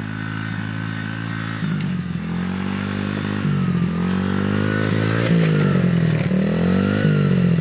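Dirt bike engine running and revving, its pitch rising and falling several times as the throttle opens and closes, louder toward the end.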